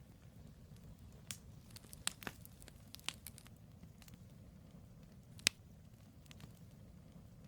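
Firewood burning in a campfire: scattered sharp pops and crackles over a low steady rumble, with the loudest snap about two-thirds of the way through.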